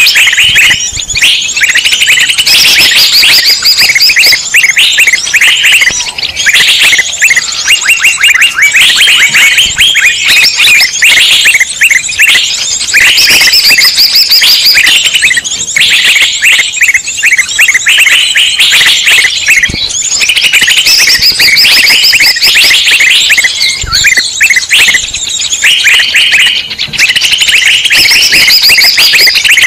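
Loud, dense chorus of many small songbirds chirping and trilling over one another without a break, the kind of busy flock chatter played as a bird-luring (pikat) call.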